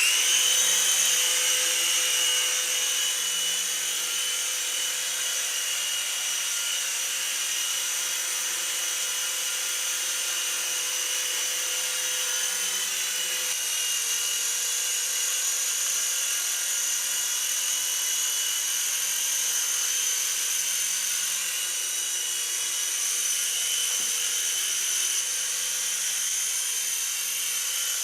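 Syma S026G mini Chinook RC helicopter's small electric motors and tandem rotors running at flying speed: a steady, high-pitched whine made of several tones.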